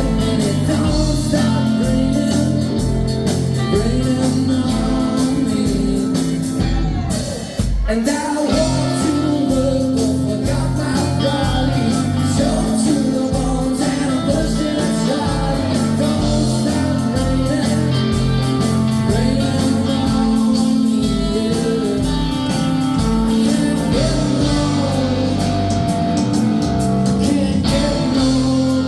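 A live rock band plays a song with lead singing, guitars and drums keeping a steady beat. The band drops out briefly about seven and a half seconds in, then comes straight back.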